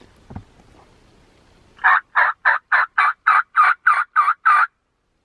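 A wild tom turkey gobbling: a run of about ten quick, evenly spaced notes, about three a second, starting about two seconds in and stopping abruptly.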